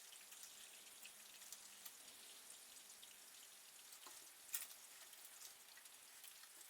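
Near silence: faint scattered ticks over a low hiss, with one sharper click about four and a half seconds in.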